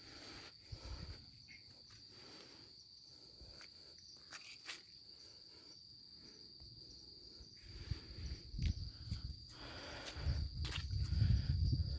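Crickets trilling in one steady high note, with scattered clicks and rustles. From about eight seconds in, an irregular low rumble of thuds grows louder toward the end.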